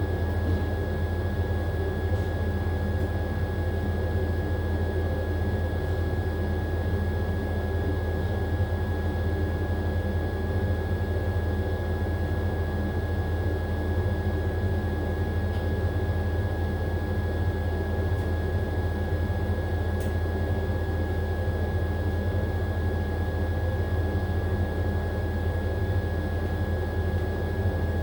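AQUA AQW-DX12M front-loading drum washing machine running steadily in its spin cycle: a deep, even hum with a thin, steady high whine above it.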